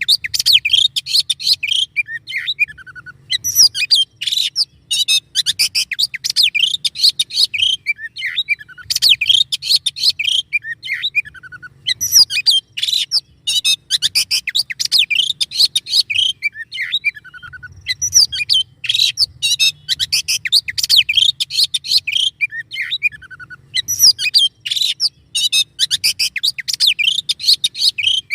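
A songbird singing a dense, rapid masteran song of high chirps, trills and sharp 'shots', delivered in fast bursts of a few seconds each separated by short pauses.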